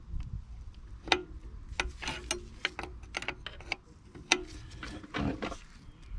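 Irregular sharp metallic clicks and taps of a hand tool being worked while tightening a fuel-system fitting in a car's engine bay.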